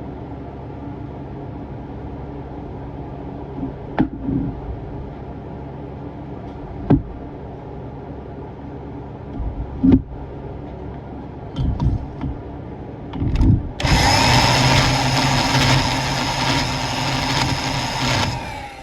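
A steady low machine hum with a few sharp clicks and knocks. About fourteen seconds in, a power tool runs loudly for about four and a half seconds and then stops.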